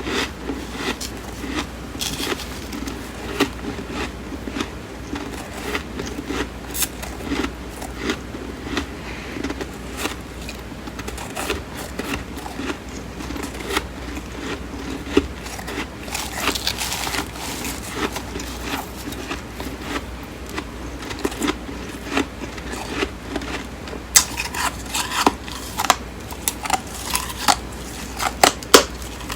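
Close-miked chewing and crunching of flaky freezer frost: many sharp crisp crackles, busier and louder for the last few seconds.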